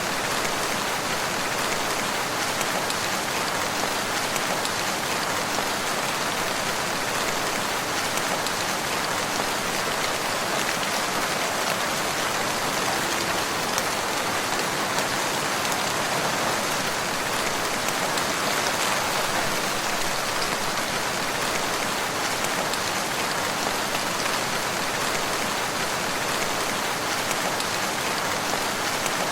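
Steady rain falling on a surface, an even hiss of many drops with fine individual drop ticks, unchanging throughout.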